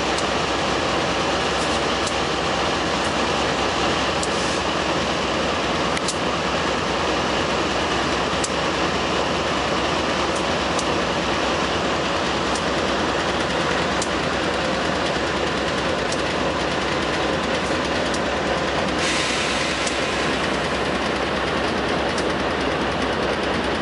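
Container train's wagons rolling past: a steady, loud rumble and rattle of steel wheels on the rails, with occasional sharp clicks.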